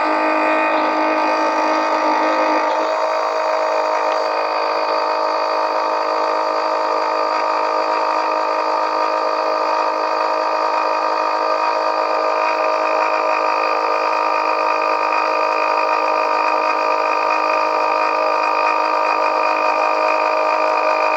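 Milwaukee M18 transfer pump running steadily with an even motor whine, its tone shifting slightly about three seconds in. It is not yet drawing oil from the engine's dipstick tube and may need priming.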